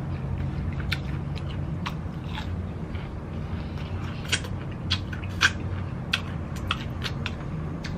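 Wet mouth smacks and clicks from chewing fried food and licking fingers: a string of short sharp smacks, most of them in the second half. A steady low hum runs underneath.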